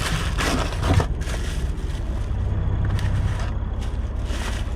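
Idling semi truck engine giving a steady low rumble, with rustling and handling noise in the first second or so.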